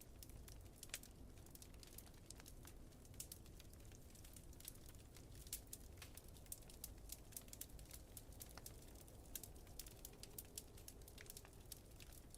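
Faint wood fire crackling in a fireplace, with many small irregular pops and snaps, over a steady low rumble of wind.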